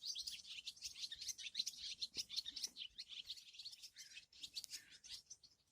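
Small birds chirping: many short, quick chirps overlapping, several birds at once.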